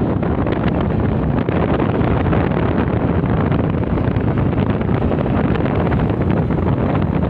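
Loud, steady rumble and rush of a moving vehicle, with wind buffeting the microphone.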